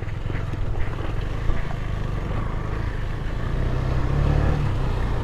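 KTM Duke 250's single-cylinder engine running at low revs on a rough dirt track, its note rising slightly about four seconds in.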